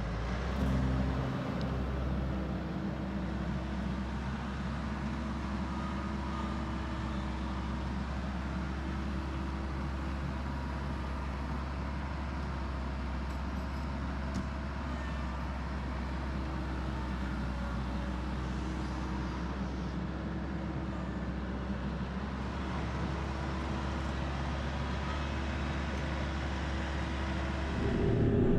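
TYM T574 compact tractor's diesel engine running steadily under work, with hydraulics in use. It gets louder just before the end.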